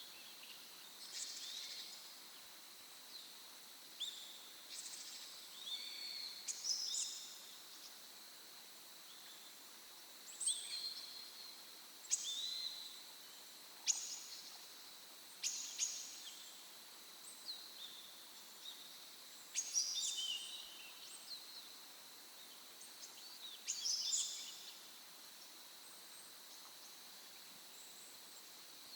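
Songbirds singing short, high chirping phrases at irregular intervals every few seconds, over a faint steady background hiss.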